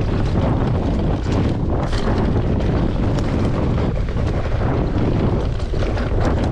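Wind rushing over an action camera's microphone while riding an e-mountain bike on a trail, a steady low rumble with many small rattles and clicks from the bike and tyres over rough ground.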